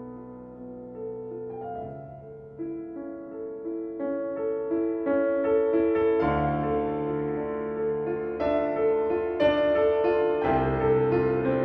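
Piano music, calm at first and gathering into a fuller, louder passage as more notes come in, with deeper bass notes joining about six seconds in.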